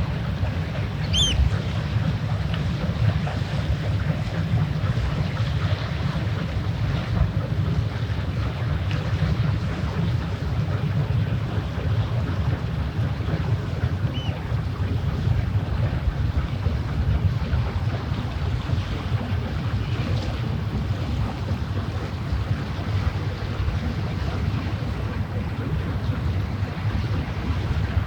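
Steady low rumble of wind on the microphone and water along the shore, with the engine sound of passing ship traffic not separable from it. A short high call sounds about a second in, and a fainter one about halfway through.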